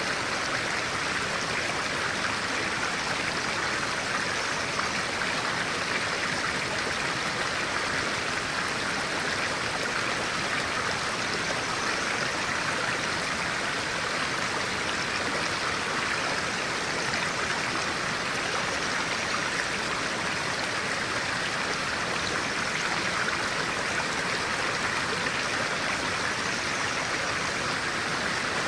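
Stream of clear water running over rocks: a steady rushing and babbling that doesn't change.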